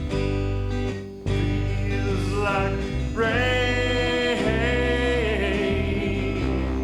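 Country-style band music with guitar and bass. About halfway through, a voice comes in and holds a long, wavering note.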